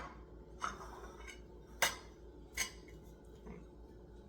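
A kitchen utensil clinking lightly against a dish a few times while an oyster is dipped in beaten egg: three short, sharp clicks and a couple of fainter ones.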